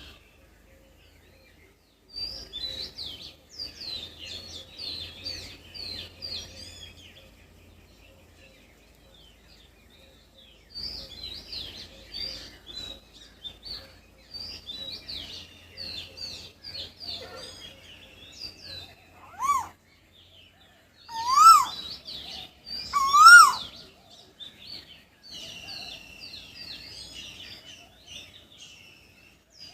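Small birds chirping and twittering in bunches of quick, high notes. Three much louder calls come about two-thirds of the way through, each rising and then falling in pitch.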